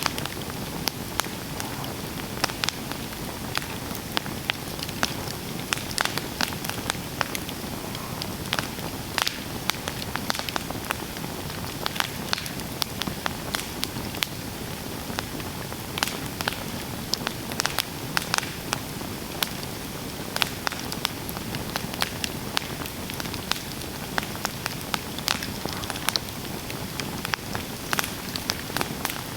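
Campfire burning, with frequent irregular sharp crackles and pops over a steady soft hiss.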